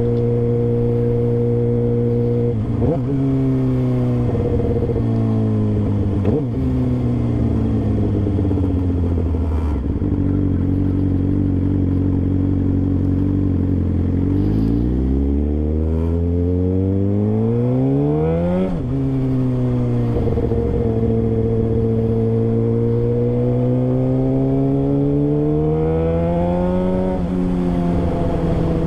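Motorcycle engine heard from the rider's seat. It cruises at steady revs at first, then revs climb in a rising whine and drop sharply at an upshift about two-thirds of the way in. It climbs again and shifts once more near the end.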